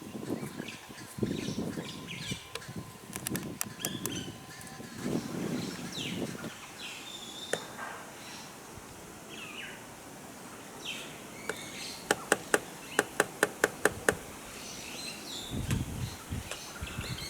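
Grey woodpecker pecking at its reflection on a car: a few sharp knocks, then a quick run of about ten loud knocks, roughly five a second, about two-thirds of the way through. Short bird chirps are scattered throughout.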